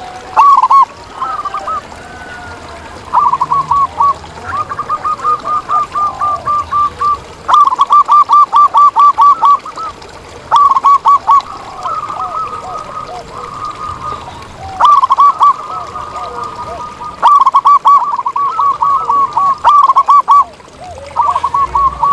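Several zebra doves (perkutut) cooing: runs of short, rapid, bouncing coos, about four or five a second, each run lasting a second or two, with several birds overlapping at slightly different pitches.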